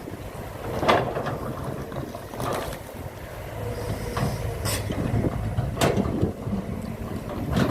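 Steady low rumble of machinery, with five sharp knocks or clanks spread through it.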